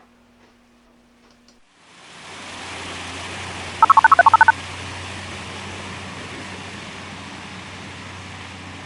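A steady electronic hiss with a low hum fades in about two seconds in. Near the middle, a quick run of about ten loud, pitched electronic beeps sounds.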